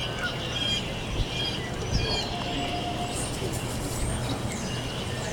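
Several small birds chirping and calling over and over with short high notes and quick sliding whistles, over a steady low hum.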